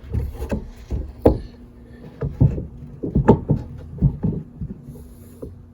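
Irregular knocks and clunks as the stock shifter assembly is worked loose by hand, with two louder knocks about a second in and about three seconds in.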